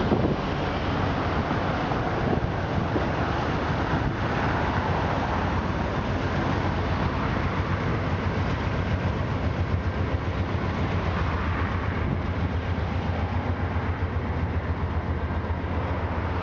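Freight train rolling past at steady speed: a continuous rumble of freight-car wheels on the rails.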